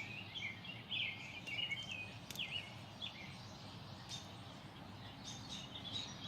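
Small birds chirping and singing in quick, bending phrases, with a few faint clicks among them.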